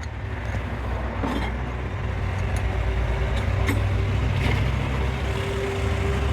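An engine running steadily with a low rumble, a steady whining tone above it and a few light clicks and knocks.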